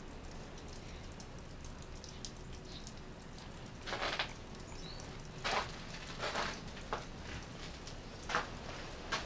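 Light pattering of wind-driven snow, with scattered faint ticks and about six short, louder rustling bursts in the second half.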